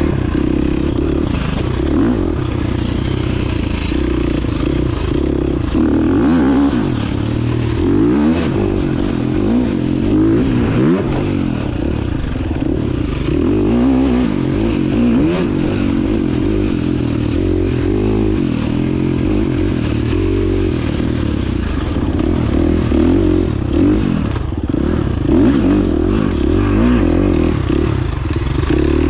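Dirt bike engine running under load, its revs rising and falling again and again as the bike is ridden along a trail, with rattling and knocks mixed in.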